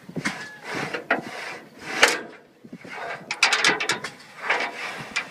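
Flue-cleaning tool scraping back and forth inside the boiler fire tubes of a Case 45 hp steam engine, knocking soot loose in a series of irregular rasping strokes, with a quick run of strokes near the middle.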